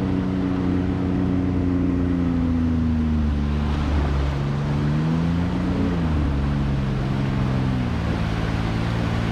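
Side-by-side UTV engine running with the throttle varied: the engine note sags a few seconds in, picks up again, then drops and rises once more near the end, as when a machine is eased up a steep rocky climb.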